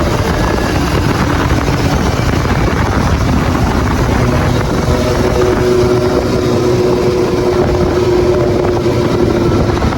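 Suzuki GSX-S750 inline-four engine running at a steady pace under the ride, its tone holding level through the second half, buried in heavy wind rush on the microphone.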